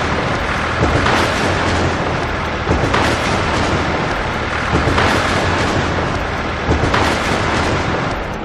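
Loud, dense rumbling of a heavy vehicle's machinery, with a steady low hum under it and a sharp knock about every two seconds.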